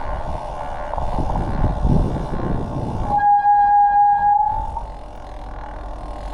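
A single steady horn note, held for about a second and a half and ending with a slight rise in pitch, over a rushing haze of tyre noise on a wet road and passing traffic.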